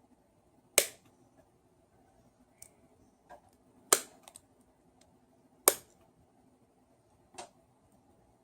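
Sharp, single clicks from hand tools at work: four loud ones spaced about one and a half to three seconds apart, with a few fainter ticks between them.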